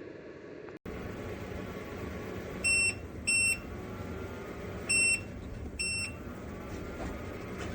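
JIBUFI 1500W PTC space heater running with a steady fan hiss, over which its controls give four short high-pitched beeps: two close together about three seconds in, then two more a couple of seconds later, the last one fainter. These are the heater's acknowledgement beeps as its settings are changed.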